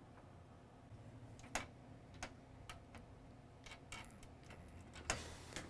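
Faint, scattered clicks and taps from handling the USB flash drive and computer, a few seconds apart, the sharpest about five seconds in, over a low steady hum.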